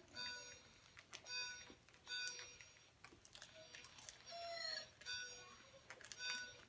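Mourning dove song played back as a recording from a toy bird: a rising-then-falling coo followed by three steady low coos, heard twice.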